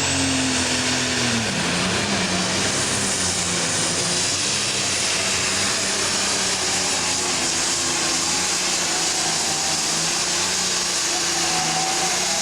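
Turbocharged diesel super stock pulling tractor engine running at full throttle under load, with a steady high turbo whistle over the engine note. The engine note drops about a second and a half in.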